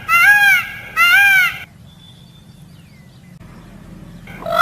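Animal calls: two loud calls about a second apart, each rising then falling in pitch, then a pause of over two seconds before a longer call at a steady pitch begins near the end.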